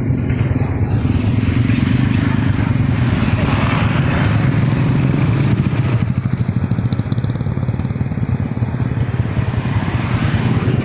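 A motor vehicle engine running steadily, with a rushing swell about four seconds in and again near the end.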